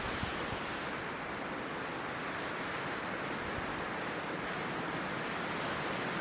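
Strong wind rushing through the forest trees, a steady, even hiss with no separate gusts or knocks.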